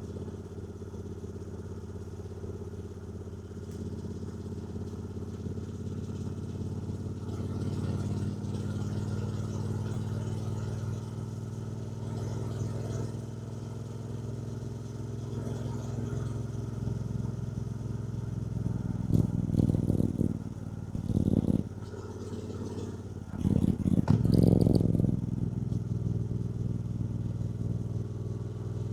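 2024 Triumph Bonneville T120's 1200 cc parallel-twin engine running steadily under way, its pitch rising slightly a couple of times. About two-thirds through come two loud bursts of rushing noise a few seconds apart.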